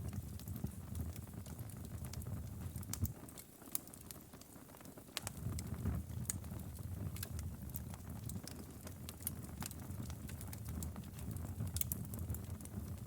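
Outdoor fire crackling: irregular sharp pops and snaps over a low, steady rumble of flame. The low rumble drops away for a couple of seconds about three seconds in, then returns.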